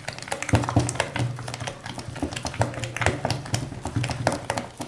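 Cake batter being stirred by hand in a bowl, the utensil knocking and scraping against the bowl in quick, uneven strokes, several a second.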